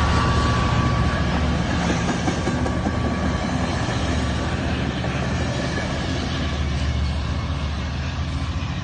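A train running past with a steady low rumble that slowly fades.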